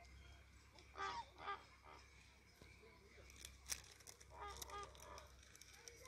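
Faint honking bird calls: two short calls about a second in, then a quick run of them after the middle.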